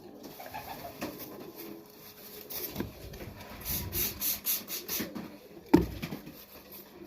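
Mite spray squirted in several quick short hisses onto a pigeon's feathers, with rubbing and rustling as the bird is handled. A single loud knock near the end.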